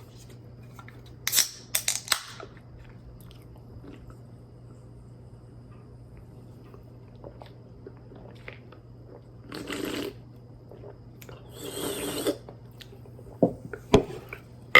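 Fruit punch being drunk from a container: a few sharp clicks and handling noises, then two short noisy bursts of sipping and swallowing, with a few more clicks near the end.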